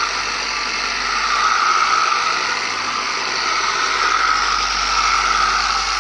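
Electric buffer motor running steadily with a high, even whine while it polishes wet compound on painted motorcycle bodywork.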